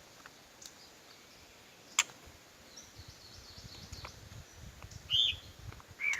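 White-rumped shama calls: a faint warbling phrase, then two loud, arching call notes near the end. There is a single sharp click about two seconds in, and a low rumble under the later part.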